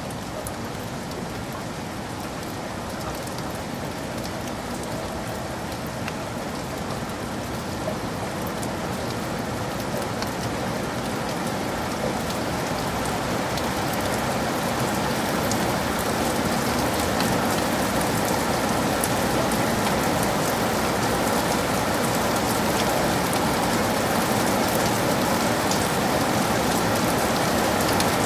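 Heavy rain falling in a forest, a steady hiss with many fine drop ticks, building gradually louder.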